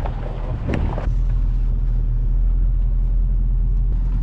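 Truck engine running with a steady low drone while driving a rough dirt trail, with a few knocks and rattles in the first second.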